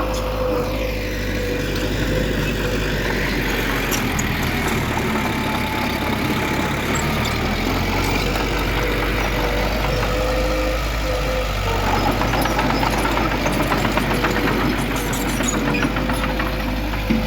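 Heavy diesel engine of earthmoving machinery running steadily, with a thin steady whine over its low hum.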